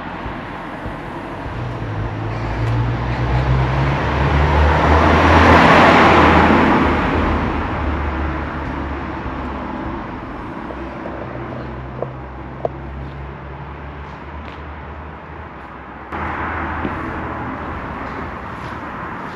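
A motor vehicle driving past on the street, its engine hum and tyre noise building to a peak about six seconds in, then fading away. Two brief clicks come a few seconds after the peak.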